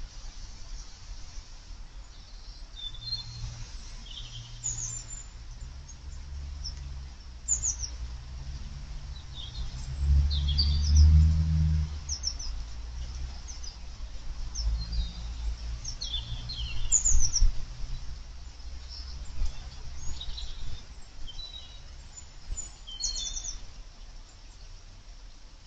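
Small garden birds chirping: short, high, quick notes scattered through, many sweeping downward. Underneath runs a low rumble that swells to its loudest about ten seconds in and again near seventeen seconds.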